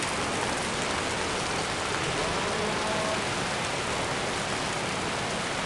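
Hail and rain falling hard together, a steady dense hiss of impacts with no let-up.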